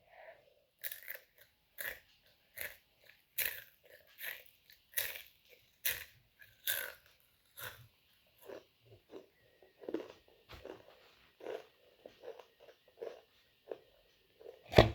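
A person biting and chewing crunchy Takis rolled tortilla chips close to the microphone: crisp crunches about one every 0.8 s at first, easing into softer chewing in the second half. One sharp, loud crunch comes just before the end.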